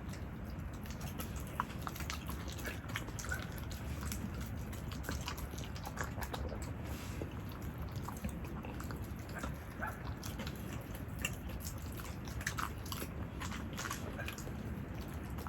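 A Jindo-mix dog chewing and crunching food, a run of irregular small crunches and clicks over a steady low hum.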